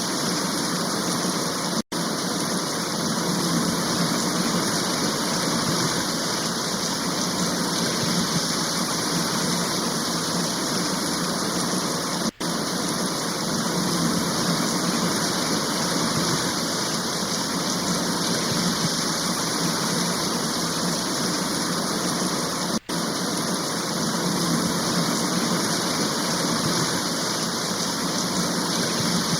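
Steady heavy rain, an even hiss. It cuts out for an instant three times, about ten seconds apart.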